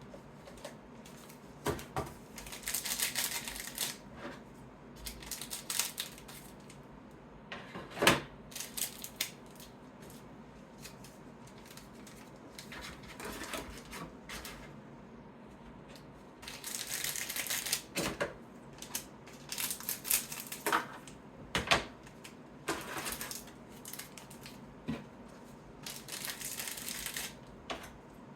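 Trading cards being sorted by hand: stretches of cards sliding and rustling against each other, broken by sharp taps and clicks now and then, the loudest about eight seconds in.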